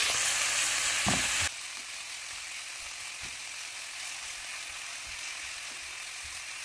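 Italian sausage, red onion and carrot sizzling in a hot skillet while a spatula stirs and breaks up the meat, with a few light scrapes and knocks. The sizzle drops suddenly quieter about a second and a half in, then goes on steadily.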